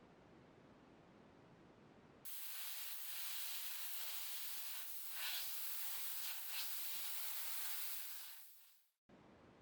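A steady spraying hiss, as of aerosol or compressed air, starting abruptly about two seconds in and fading out near the end. It swells briefly louder twice in the middle.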